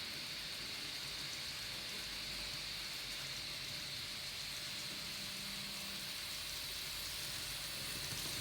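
Steady hiss of N gauge model trains running on the layout, with no distinct chuffs or whistles.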